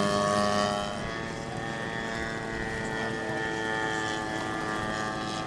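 Model airplane engine running with a propeller, a steady buzzing drone that fades a little about a second in and then holds steady.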